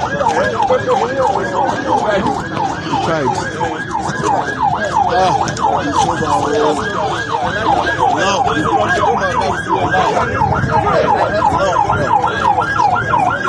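Fast yelping siren, its pitch sweeping up and down about three times a second without a break, with voices underneath.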